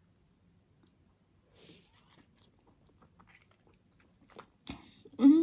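Close-up mouth sounds of someone biting into and chewing a big juicy pork momo (steamed dumpling): soft wet clicks and smacks, with a few sharper clicks about four and a half seconds in. Near the end a long hummed 'mmm' begins.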